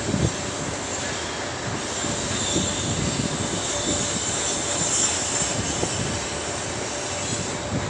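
Distant freight train hauled by a 3ES5K Ermak electric locomotive, a steady rumble and hiss with a faint steady whine, mixed with wind buffeting the microphone.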